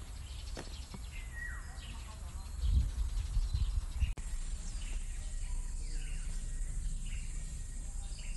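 Wild birds calling outdoors: short, falling chirps repeated about once a second over a steady background hiss. A burst of low rumble on the microphone comes about three seconds in.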